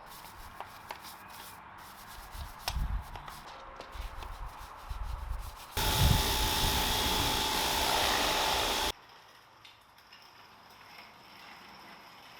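Brush scrubbing on a dirt bike, in irregular scraping strokes. About six seconds in, a pressure washer sprays loudly and steadily for about three seconds, then cuts off suddenly.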